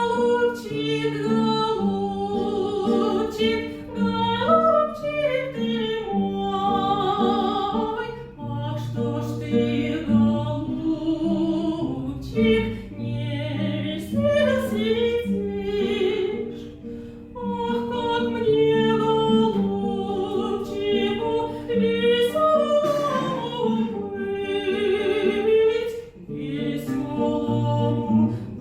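A woman singing a classical romance-style song with vibrato, over instrumental accompaniment with sustained bass notes.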